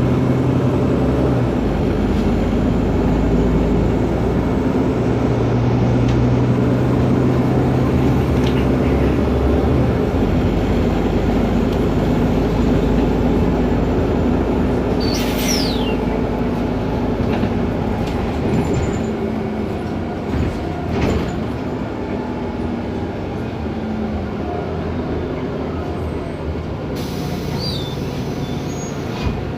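Otokar Kent LF city bus's Ford Ecotorq Euro 6 diesel engine and Voith DIWA 864.6 automatic gearbox running with the bus underway, a steady drone that eases somewhat in the last third. A brief high squeal about halfway through and a few knocks a few seconds later.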